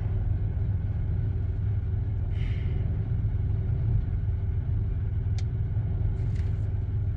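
Strong gale wind buffeting a car, heard from inside the cabin as a steady low rumble with a faint steady hum. About two and a half seconds in there is a brief hiss.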